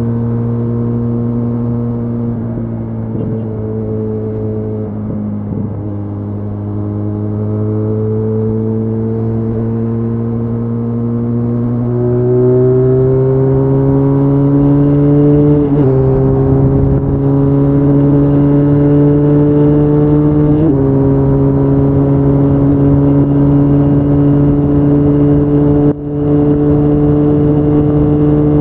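Benelli Leoncino 500's parallel-twin engine pulling hard at high speed, its pitch climbing steadily through the revs. There are two sharp upshifts, about halfway through and again some five seconds later, after which the engine runs on steady at high revs, with a brief dip in the sound near the end.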